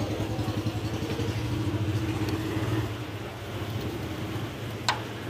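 Maruti Suzuki Swift's diesel engine idling steadily with an even low pulse, and a single sharp click near the end.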